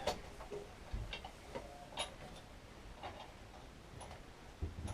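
Irregular light clicks and taps of metal parts being handled while a bolt is lined up to refit a lawnmower's fuel tank, with a few soft low knocks near the end.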